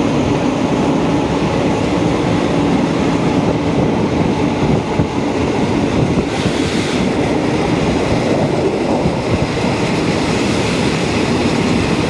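Thai passenger train running along the track, heard from on board: a loud, steady noise of wheels on rails and the moving carriage.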